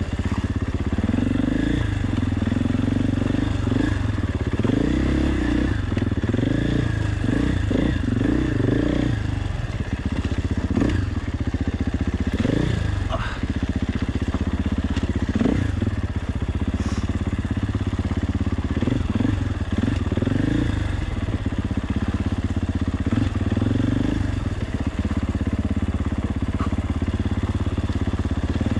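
KTM 450 EXC enduro motorcycle's single-cylinder four-stroke engine running under the rider on rough single track, revs repeatedly rising and falling with throttle blips, with a few sharp knocks along the way.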